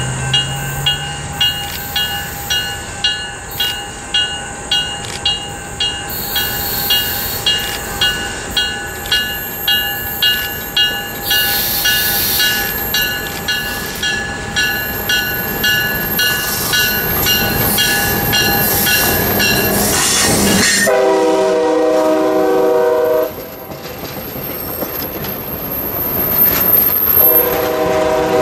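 A passenger train approaching and passing. A bell rings steadily, about one and a half strokes a second, while the train's running noise builds. About two-thirds of the way through, the diesel locomotive's air horn sounds one long blast, and a second blast starts near the end as the coaches roll past.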